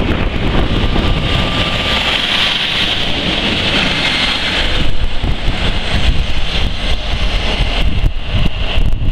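Class 156 diesel multiple unit passing close along the platform, a steady rumble and hiss heard through heavy wind buffeting on the microphone.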